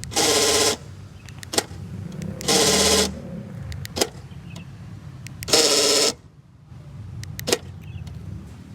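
Honda Civic Turbo fuel door actuator motor buzzing in short half-second bursts, three times about every two and a half seconds, with a sharp click between bursts. The actuator motor is worn out from use.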